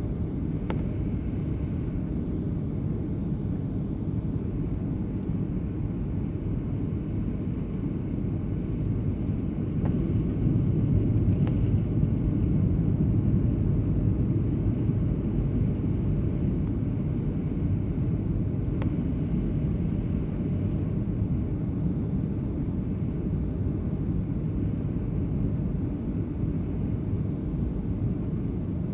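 Steady airliner cabin noise in flight: a low rumble of engines and airflow, swelling slightly about ten seconds in.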